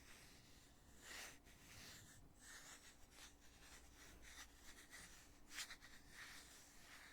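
Faint handling sounds of a foundation container's lid being opened and closed: soft scrapes and rubs, with a quick run of small clicks about five and a half seconds in.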